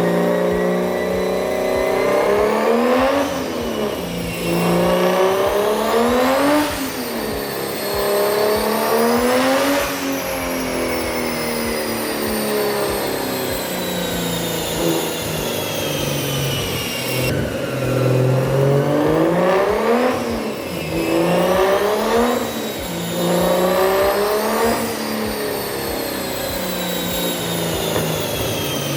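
Turbocharged BMW M52 straight-six in an E36 revving out under hard acceleration, its pitch climbing steeply and then falling back, over and over.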